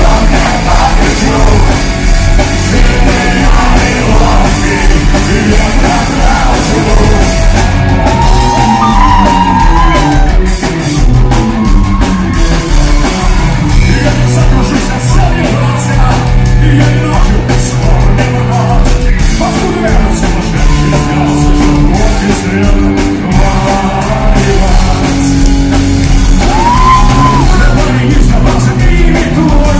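Live punk-rock band playing in a large hall, with distorted guitars, bass and drums, and a singer's voice with shouted lines.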